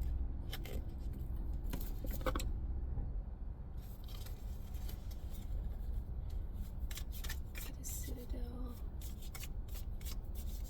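A deck of tarot cards being shuffled and handled: quick snaps and rustles in two spells, with a quieter gap of a few seconds between them.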